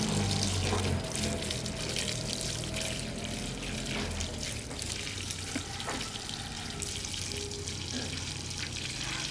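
Water running steadily, over a low hum.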